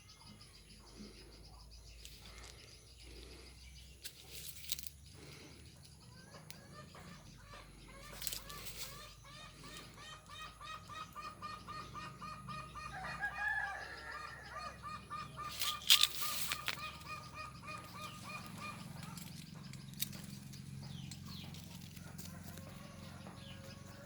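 A bird calling in a long run of rapid, repeated short notes, with a few sharp knocks, the loudest about two-thirds of the way through.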